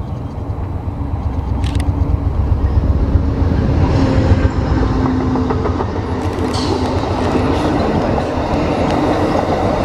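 Amtrak passenger train rolling along the track, a heavy steady rumble that builds over the first few seconds, with wheels clicking over the rail joints later on.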